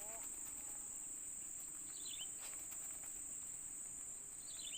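Steady high-pitched drone of insects, with a few short falling chirps about two seconds in and again near the end.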